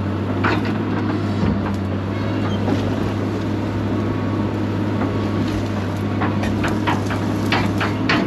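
Excavator's diesel engine running steadily with a low drone while the machine is slewed and tracked around, with scattered sharp metallic clanks from the machine, more of them near the end.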